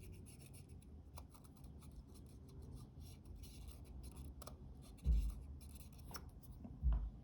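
Small hand cleaning work on the parts of an opened Fuji GA645 camera: faint, quick scratching and rubbing strokes, with two dull low knocks near the end.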